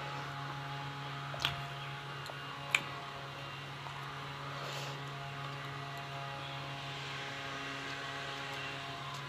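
Steady low electrical or mechanical hum with a few even tones, with two faint sharp clicks about one and a half and three seconds in.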